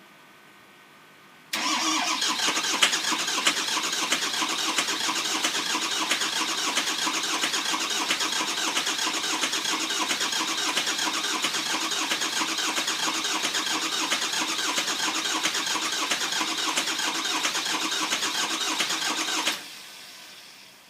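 Starter cranking a Ford 6.0 Power Stroke V8 turbodiesel in a long, steady crank of about 18 seconds that starts and stops abruptly, without the engine catching: a long-crank no-start.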